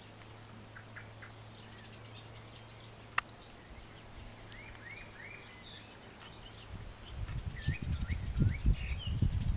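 Small birds chirping in the background in short rising and falling calls, over a steady low hum. There is one sharp click about a third of the way in. From about two-thirds of the way through, loud irregular low rumbles and thumps take over.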